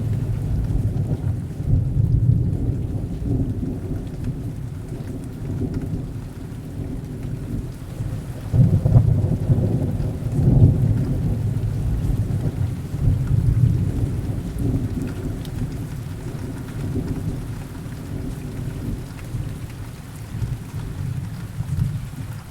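Heavy rain with low, rolling thunder. The rumbles swell and fade several times, are loudest about nine to eleven seconds in, and die down near the end.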